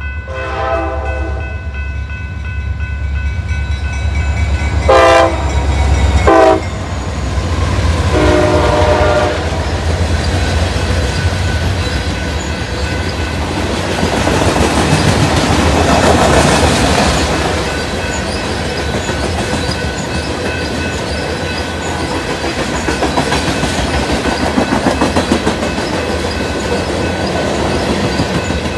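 CSX diesel freight locomotives sounding their horn at a grade crossing: a blast at the start, two short loud blasts about five and six seconds in, and a longer blast around eight seconds in, over the low engine rumble. Then the freight cars roll past with steady wheel noise and the clickety-clack of wheels over rail joints.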